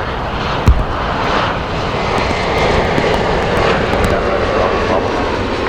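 Jet airliner engines running, a steady rushing noise that slowly grows a little louder, with a single sharp knock less than a second in.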